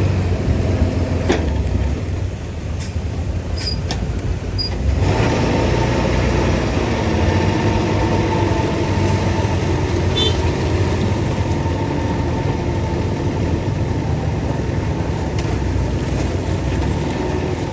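Heavy diesel engine of earthmoving machinery running steadily. It gets louder and fuller about five seconds in, as under load, with a few brief high squeaks.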